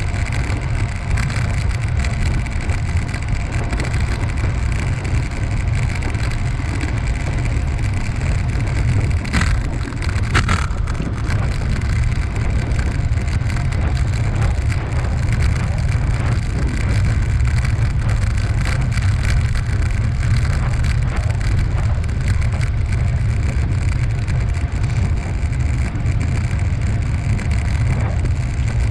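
Steady low rumble of wind buffeting the microphone while riding, with road noise underneath. There are a couple of brief clicks about nine and ten seconds in.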